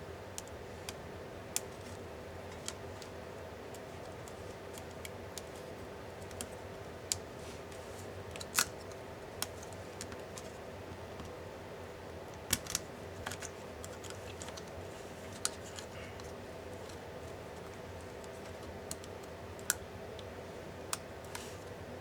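Scattered sharp clicks and taps of small tools and laptop parts being handled while a laptop is taken apart, irregular and about a dozen in all, over a steady background hum.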